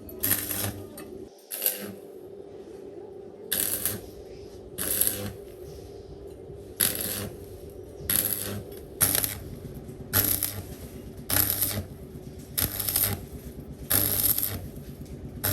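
Repeated short metallic scraping strokes, about one every second or so, over a steady low hum, typical of hand-tool work on metal parts.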